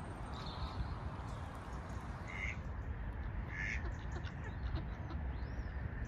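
Birds calling at a pond: two short calls a little over a second apart, with a fainter one just before, over a steady low rumble.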